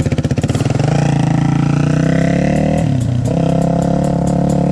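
Dirt bike engine under way: a low putter at first, revs picking up about a second in and holding steady, then a brief drop in revs about three seconds in before it climbs back up.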